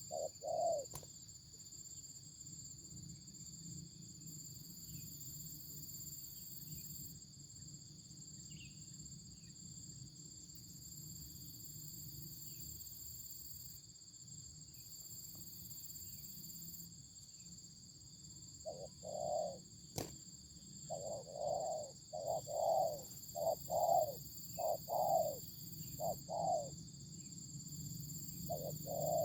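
Dove cooing in runs of short, quickly repeated low notes: a few right at the start, then a long pause, then a longer run from about two-thirds of the way through. A steady high-pitched whine sounds throughout.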